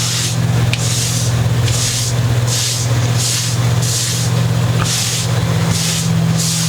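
Repeated hissing swishes, a little under one a second, of the work surface being wiped clean of shredded tape, over a steady low hum.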